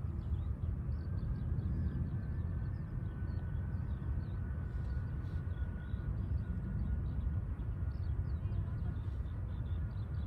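Low outdoor rumble of distant jet airliners, blended with wind on the microphone, with small birds chirping throughout. A faint high engine whine comes in about a second in and fades after a few seconds.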